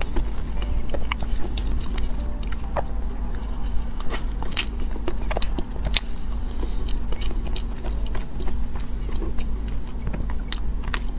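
Close-up eating sounds of a soft cream-and-taro layer cake: chewing with frequent sharp, wet mouth clicks, over a steady low hum.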